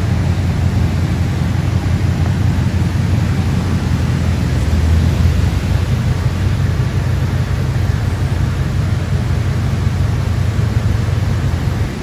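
A steady low rumble with an even hiss over it, holding level throughout.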